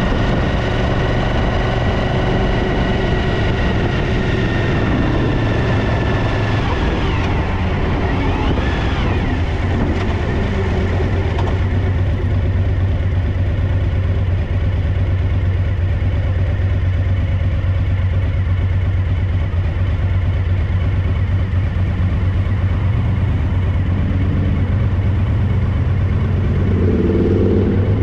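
Suzuki DL1000 V-Strom V-twin engine running steadily with a rear-cylinder misfire.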